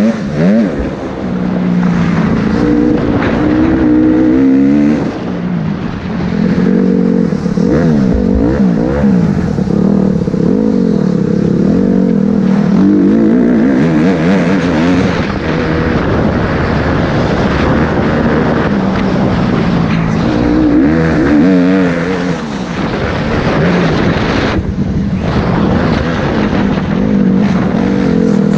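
Motocross bike engine revving hard, its pitch climbing and dropping again and again as the throttle opens and closes through the gears.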